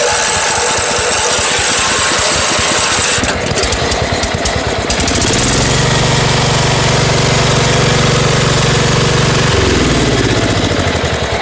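Kohler Pro 18 hp overhead-valve engine on a Craftsman lawn tractor, started by a truck battery switch wired in place of the worn-out starter solenoid. It comes in loudly at once and runs. From about five seconds in it holds a steady high speed, then drops in pitch and slows near the end.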